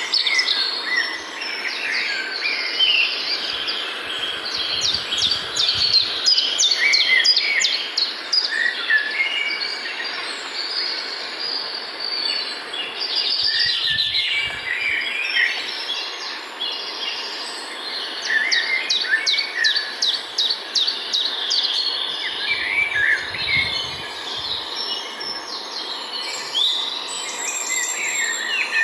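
Several wild birds singing and calling at once, with repeated fast trills and chirps, over a steady background hiss. A few brief low rumbles come through about four to six seconds in, near the middle, and around two-thirds of the way through.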